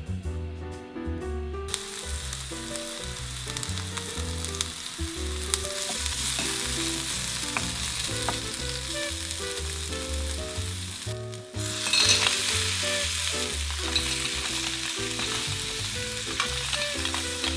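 Minced garlic and chili sizzling in a hot stainless steel frying pan, stirred with a wooden spatula. The sizzle starts about two seconds in and is louder from about twelve seconds, with clams in the pan. Light background music runs underneath.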